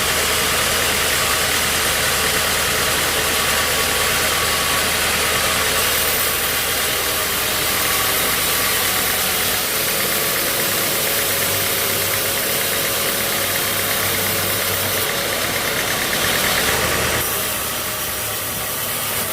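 Sawmill machinery engine running steadily under a strong hissing noise. The sound changes abruptly several times, as at cuts between shots.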